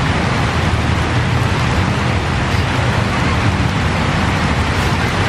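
Steady rushing noise of rain falling outdoors, with a low rumble underneath.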